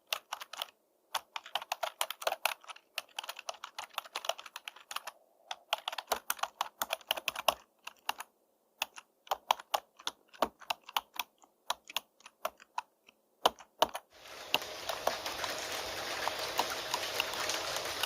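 Typing on a computer keyboard: rapid key clicks in bursts with brief pauses. Near the end the typing stops and a steady hiss of rain takes over.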